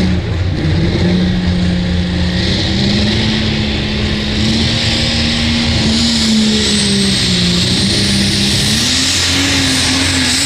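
Turbocharged diesel pulling truck running hard under load, its engine note held mostly steady, with a high turbo whine rising in the second half.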